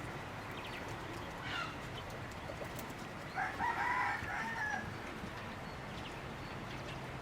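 A chicken gives one pitched call lasting over a second, about three and a half seconds in, with a fainter short call just before, over a steady background hiss.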